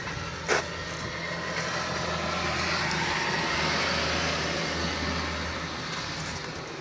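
Noise of a passing vehicle: a low steady hum with a broad rush over it that swells to its loudest about halfway through and then fades. A short click about half a second in.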